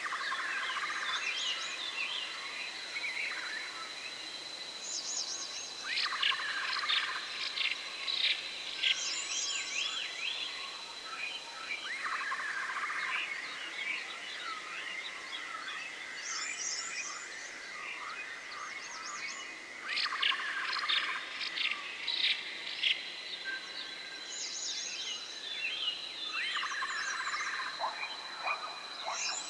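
Forest ambience: clusters of bird chirps and calls recur every six seconds or so over a steady, thin high-pitched tone like an insect drone.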